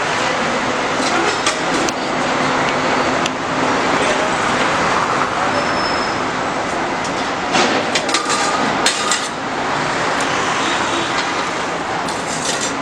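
Busy roadside din: steady traffic noise with indistinct voices, and a few short clatters about two-thirds of the way in.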